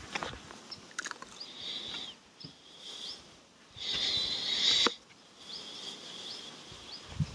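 Small birds chirping, short calls repeated again and again, with one louder warbling call for about a second around four seconds in. A few faint clicks.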